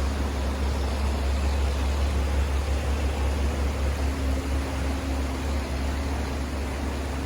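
Steady rush of river water flowing over rapids, with a strong low rumble underneath.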